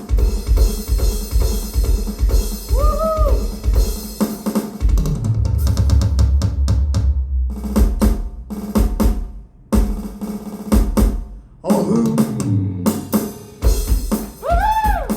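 Live drum kit solo: rapid bass drum and snare hits with cymbals, then sparser hits, with low drum tones sliding down in pitch in between.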